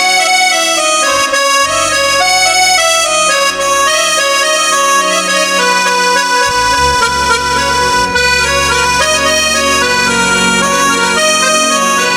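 Accordion tone from a Roland XPS-10 keyboard, played as a melody over chords, with a bass line coming in about halfway through.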